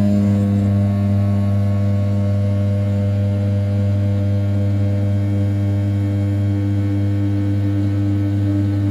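CNC router's 500 W brushless spindle turning at 6000 rpm while the end mill rough-cuts the outer profile of an A7075 aluminium block: a steady hum with several overtones.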